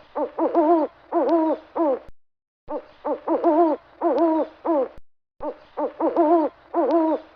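Owl hooting: a phrase of short hoots followed by longer wavering hoots, heard three times over, each repeat starting and cutting off abruptly.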